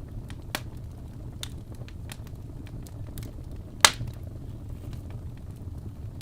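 Birchwood logs burning in a fireplace: a steady low rumble of flame with scattered small crackles and one loud sharp pop about four seconds in.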